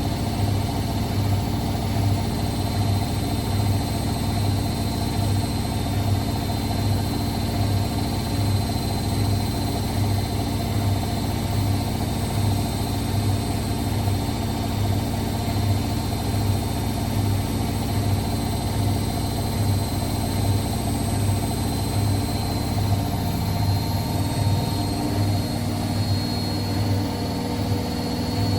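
Hotpoint WML540 washing machine running steadily: a continuous motor whine over a low, regularly pulsing hum, with a slight shift in pitch near the end.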